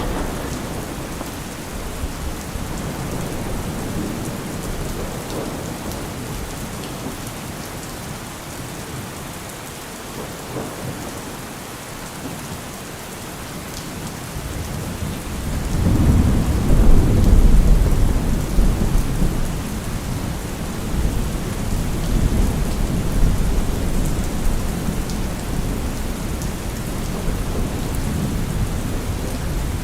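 Heavy rain falling steadily. About halfway through, a deep low rumble swells up, peaks a couple of seconds later and then slowly eases off under the rain.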